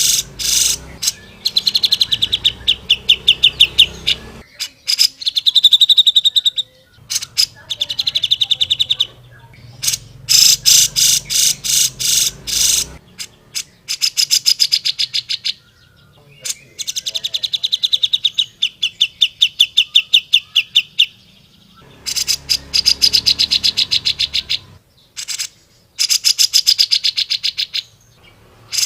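Grey-cheeked bulbul (cucak jenggot) singing: loud runs of fast, rapidly repeated high notes lasting a second or more each, broken by short pauses.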